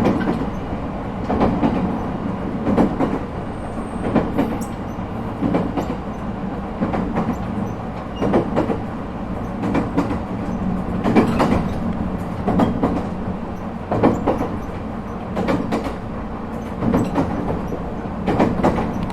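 Echigo Tokimeki Railway ET127 series electric train running at steady speed, heard from inside the car: a continuous rumble, with wheels clacking over rail joints about every one and a half seconds.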